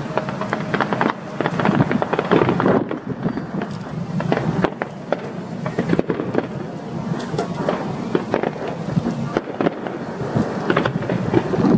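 Aerial fireworks display: a dense, irregular run of bangs and crackling bursts that goes on without a break.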